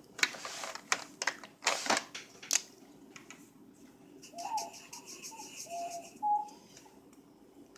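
Several short scratchy strokes of a pen on paper in the first couple of seconds as a drawing is sketched. Around the middle comes a faint run of short, high pitched warbling notes lasting about two seconds.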